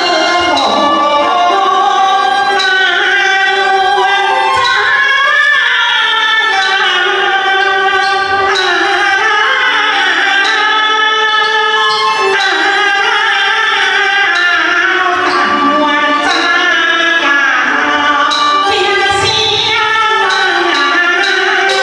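Teochew opera: singing over a traditional instrumental ensemble, with pitched melody lines that bend and glide and percussion strokes at intervals.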